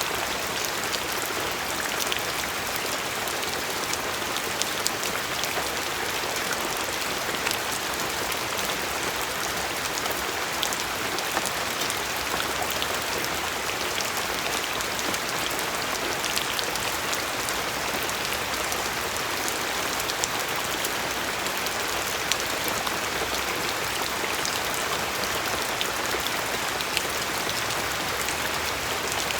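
Steady rain falling, with a continuous hiss and the distinct ticks of individual drops striking a surface.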